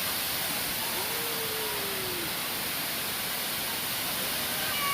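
Waterfall rushing: a steady, even roar of falling water, with a faint distant voice about a second in.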